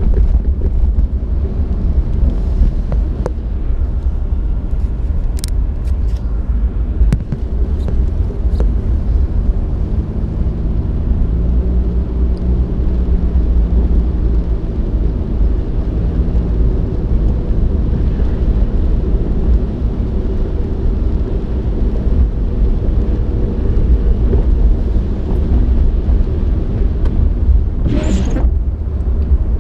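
Wind buffeting the microphone as a loud, steady low rumble, with a vehicle running underneath. A short hissing burst comes near the end.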